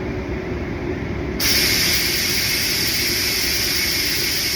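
A low steady rumble of background noise, then a steady, even hiss that starts suddenly about a second and a half in and keeps going.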